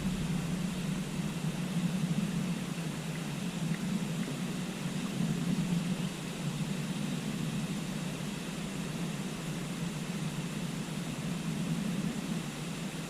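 Steady rushing of a river, a continuous wash of water noise with a low rumble underneath.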